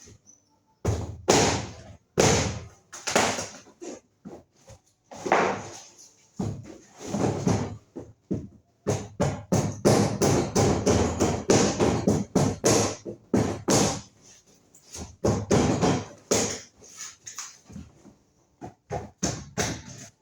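A cardboard box holding a new electric fan being opened and its packaging handled: irregular ripping, rustling and knocking, densest in the middle with short pauses.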